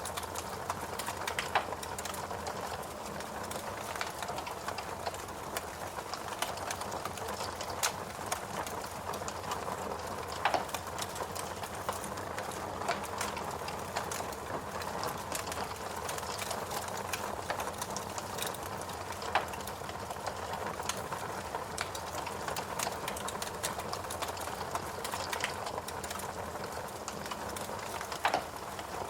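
Fireplace crackling: dense small crackles over a steady rushing hiss, with a few louder sharp pops scattered through.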